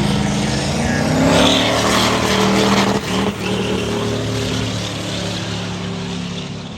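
A high-horsepower truck engine under hard acceleration. Its pitch climbs for about a second and a half, dips briefly about three seconds in like a gear change, then holds steady while it slowly fades.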